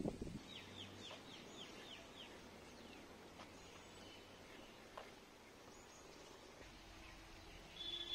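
Birds calling faintly: a quick run of about six short falling notes in the first two seconds, then scattered fainter calls, with a louder sound and a steady high note coming in near the end.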